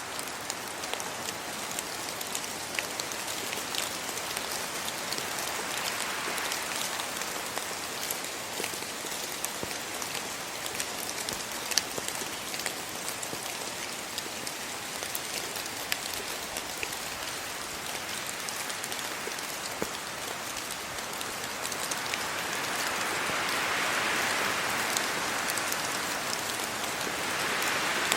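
Steady rain falling, with many small drop taps, swelling louder twice as gusts of wind pass through the trees.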